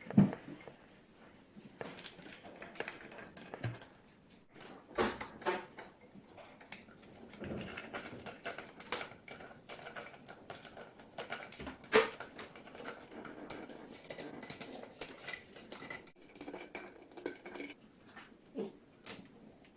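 Irregular light clatter and clicks, with a few sharper knocks: one near the start, one about five seconds in and the loudest about twelve seconds in.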